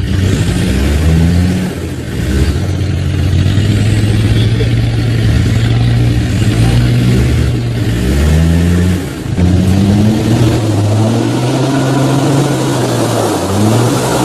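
An off-road 4x4's engine revving up again and again in repeated rising pulls, with a brief drop in level about nine seconds in.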